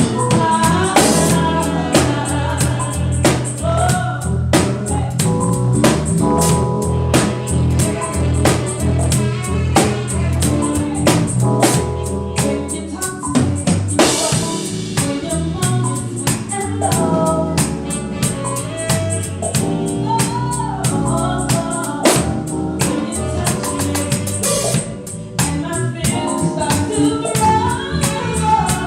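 A band playing music with singing over a drum kit keeping a steady beat.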